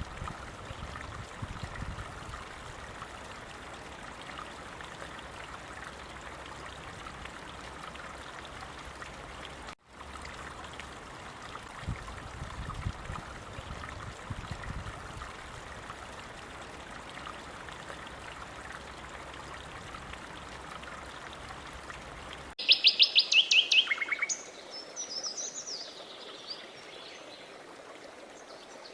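Flowing stream water, a steady rush with occasional low gurgles and a brief dropout about ten seconds in. About 23 seconds in it cuts abruptly to bird song: a loud rapid trill lasting about a second and a half, then scattered chirps.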